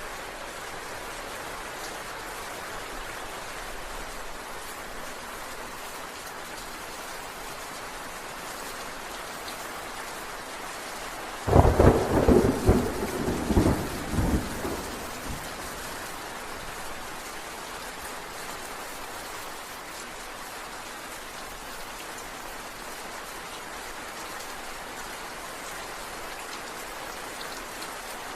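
Steady rain falling, with a sudden close thunderclap about a third of the way in that crackles in several peaks for about three seconds, then fades back under the rain.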